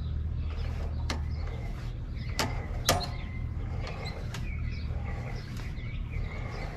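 Sewer camera push cable being fed down the line, with a few sharp clicks and creaks of the cable and reel over a steady low hum. Birds chirp faintly.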